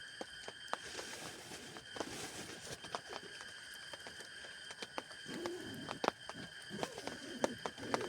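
Scattered drops tapping irregularly, as rain dripping onto a tent, over a steady high background tone. From about five seconds in, low wavering calls join.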